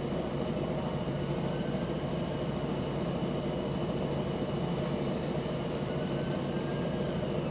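Volvo double-decker bus heard from on board, its engine and drivetrain running steadily with a faint high whine on top; the bus has an exhaust leak.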